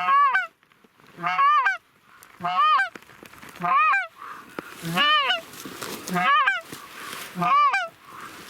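Goose honks: seven loud two-note calls about every 1.2 seconds, each a short low note breaking up into a higher honk.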